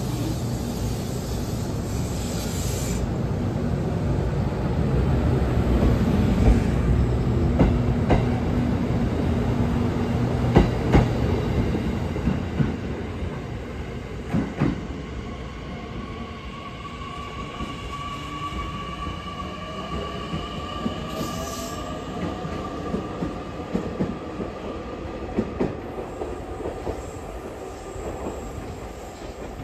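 JR Kyushu 787 series electric train pulling out and passing close by. Its wheels rumble and knock over the rail joints, loudest a few seconds in, then fade as it moves off. A thin high steady squeal hangs faintly through the second half.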